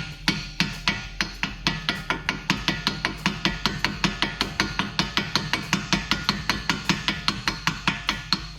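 Hammer tapping a new front wheel bearing home on the hub spindle: quick, evenly paced blows, about four to five a second, with background music underneath.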